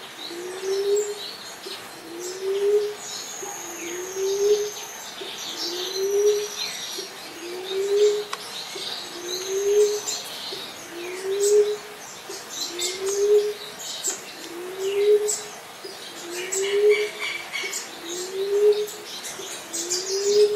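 Emerald dove cooing: a low, short coo that rises slightly in pitch, repeated evenly about every one and a half seconds. High chirps of small birds sound in the background.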